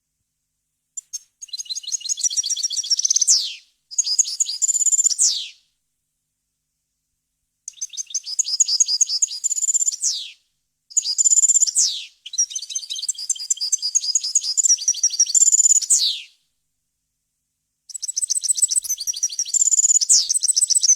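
European goldfinch singing in several bursts of rapid, liquid twittering, each phrase often ending in a quick downward-sweeping note, with pauses between the phrases.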